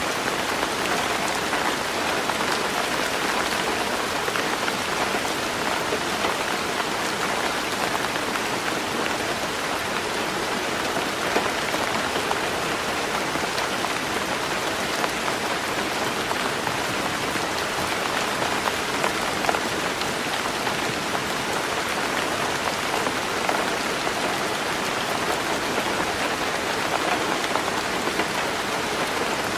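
Heavy rain falling steadily on a roof, an even hiss of raindrops with a few separate drop ticks.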